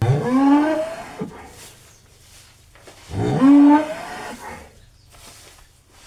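A cow mooing twice, two loud drawn-out calls about three seconds apart, each rising in pitch at the start.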